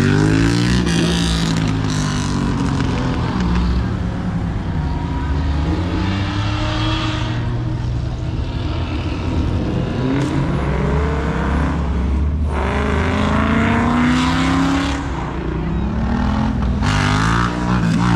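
Several car engines running and pulling away one after another, each revving up in a rising sweep over a steady low rumble of idling and passing cars.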